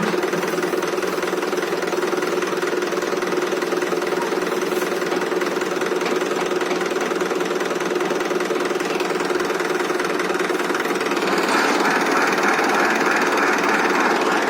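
Tractor diesel engine running steadily with a knocking clatter. About eleven seconds in it grows louder, with more high-pitched noise added.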